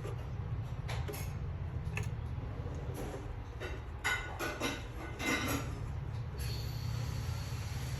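Scattered light clicks and clinks of small hard objects being handled, denser about four to five seconds in, over a steady low hum.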